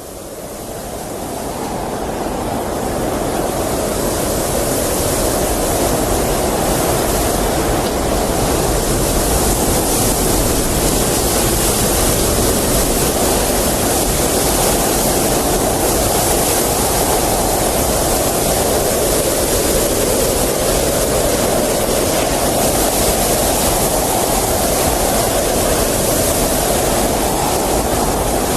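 Blizzard wind blowing as a steady rush that slowly swells and eases. It fades in over the first few seconds.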